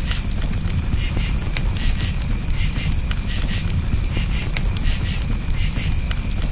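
Campfire crackling with scattered sharp pops over a low steady rumble, and crickets chirping in repeated pulsed trills.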